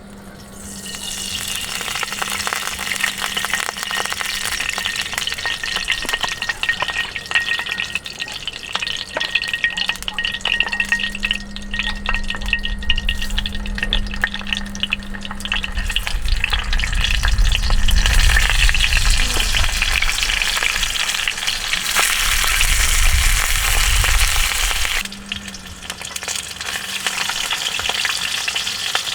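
Food frying and sizzling in a pan, with a dense crackle and stirring, and a low rumble through the middle of the stretch.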